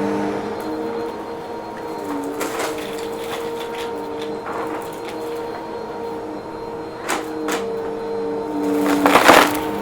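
Vacuum cleaner running with a steady motor whine while sucking up crunchy debris, which crackles and rattles through it, with a louder burst of crunching near the end.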